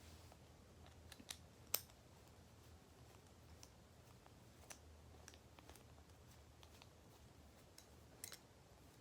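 A few faint, sharp clicks of small metal parts and a screwdriver as screws are driven into a butterfly knife trainer; otherwise near silence.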